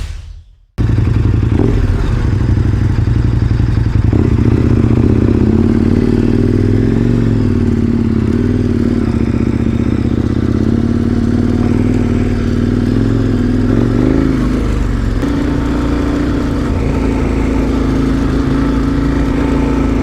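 A short whoosh, then a KTM 1090 Adventure R's V-twin engine running as the motorcycle is ridden, its pitch rising and falling with the throttle and gear changes.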